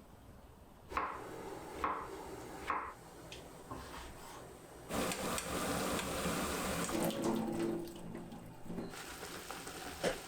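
Three light clinks, then water running from a kitchen tap into a sink for about four seconds, then a click near the end.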